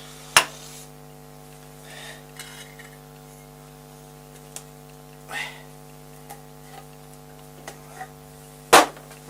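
Small steel workshop tools and parts clinking and being handled, with a sharp metal knock about half a second in and another near the end, over a steady electrical hum.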